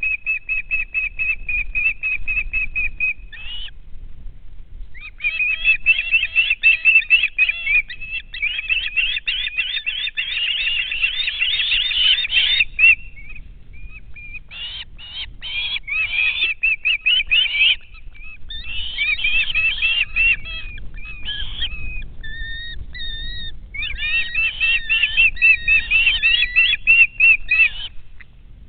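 Rapid chattering bird calls: runs of quick, repeated high notes, several a second, broken by short pauses.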